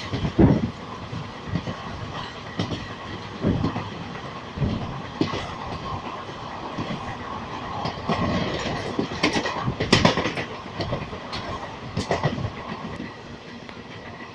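Passenger train running along the line, heard from the open coach doorway: a steady rumble with the wheels clacking over the rails at irregular intervals, and a quick run of clacks about two-thirds of the way through.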